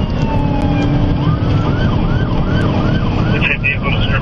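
Police car siren gliding down in a slow wail, then switching about a second in to a fast yelp, rising and falling about three times a second, over the patrol car's engine and road noise.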